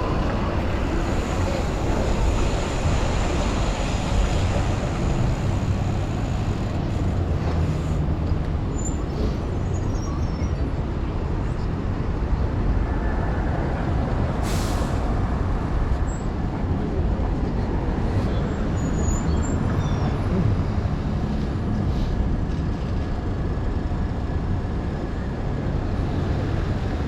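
Strong gusty wind buffeting a chest-mounted camera's microphone on a moving bicycle, a heavy rumble with city traffic underneath. A short high hiss sounds about halfway through.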